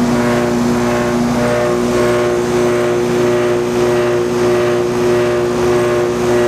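Goodman heat pump outdoor unit running its compressor with a loud, steady droning hum, an unusual racket for this unit that comes with heavy vibration; the cause is unknown to the owner.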